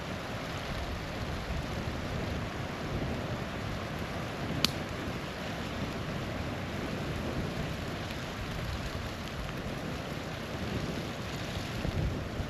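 Small waterfall rushing steadily, with a single sharp pop from the campfire about a third of the way in.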